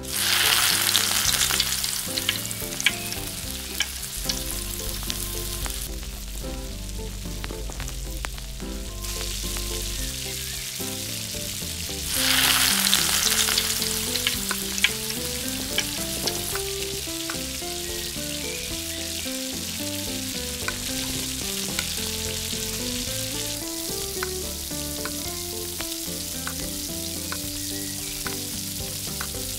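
Food sizzling in hot oil in a miniature frying pan, with light clicks of stirring. The sizzle flares up sharply at the start and again about twelve seconds in, then settles to a steady frying hiss.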